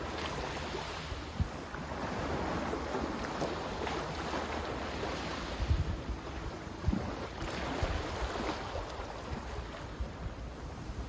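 Sea waves washing with wind noise on the microphone, a steady rush with a few short low thumps around the middle.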